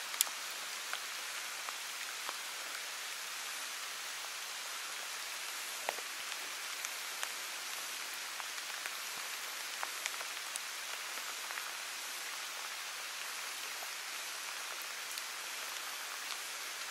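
Steady rain falling, an even hiss dotted with scattered faint ticks.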